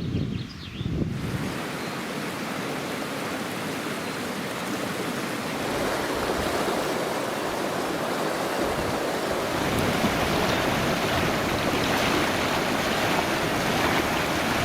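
Fast shallow river rushing over stones, a steady noise that swells a little louder partway through.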